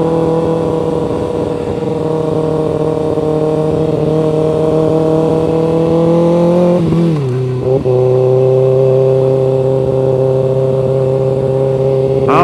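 Kawasaki ZX-6R 636's inline-four engine running under steady throttle while riding, its revs climbing slowly. About seven seconds in the pitch drops as it shifts up a gear, then it pulls on steadily at lower revs.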